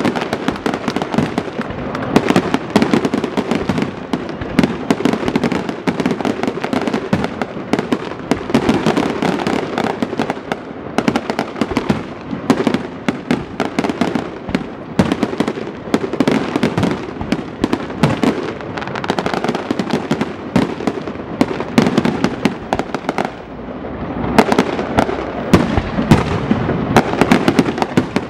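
Fireworks display going off: a dense, continuous barrage of shell bursts, bangs and crackling, easing briefly about two-thirds of the way through before another cluster of loud bangs.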